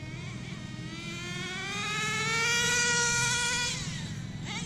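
Nitro RC car's small glow engine at full throttle on a speed run through a two-speed transmission, its pitch climbing steadily and getting louder for about three seconds. Near the end the pitch drops sharply as the car passes by.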